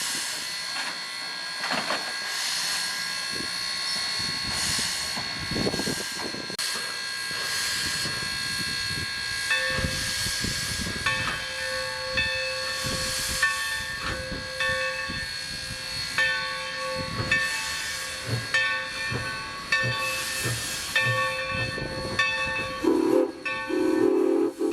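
Steam locomotive No. 3025, a Tangshan-built 2-8-2 Mikado, hissing steam. From about ten seconds in, its bell rings about once a second. Near the end its steam whistle starts a long blow.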